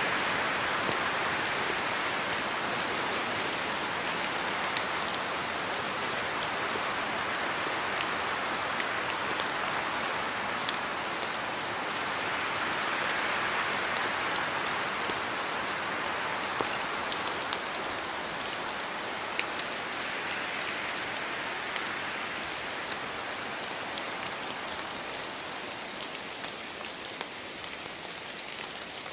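Steady rain falling, with scattered sharp ticks of individual drops hitting hard surfaces. It eases slightly toward the end.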